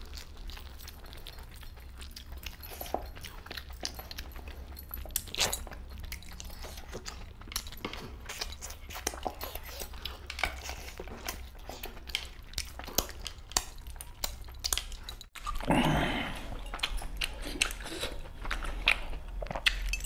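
Close-up eating sounds of a man eating spicy mutton and chicken curry with his fingers: wet chewing and lip smacking in irregular clicks. About three-quarters through there is a short dropout, then a louder stretch of smacking.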